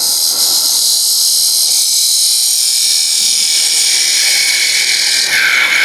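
Woodturning tool taking a light finishing cut on wood spinning on a lathe, a steady high hiss that stops near the end.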